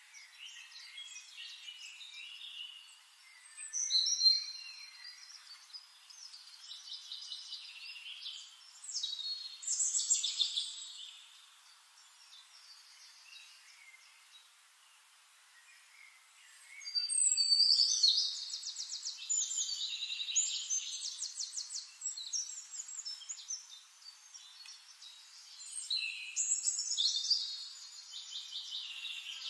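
Songbirds singing and chirping in phrases, high-pitched, with a long rapid trill about seventeen seconds in and quieter stretches between.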